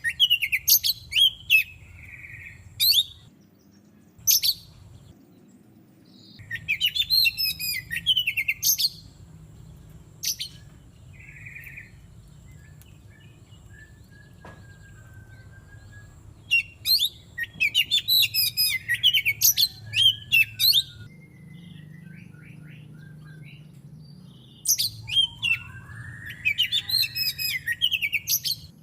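Oriental magpie-robin singing in bursts of rapid, varied high whistles and chatter, several phrases a few seconds apart, with fainter chirps in the gaps.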